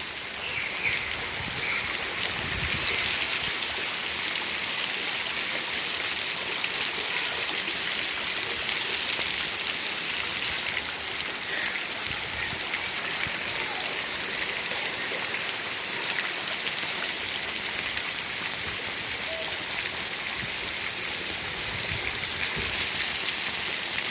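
Rain falling steadily, a dense, even hiss of drops.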